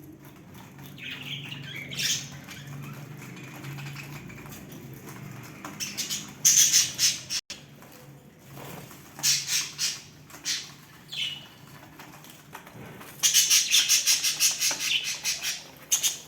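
Pet budgerigars chattering and squawking in rapid bursts of high-pitched calls, loudest about halfway through and again near the end. A low steady hum sits under the first half.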